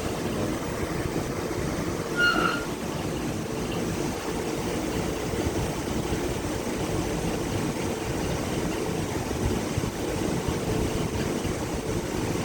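Steady mechanical hum, like a fan or air conditioner running, with a single short electronic beep about two seconds in.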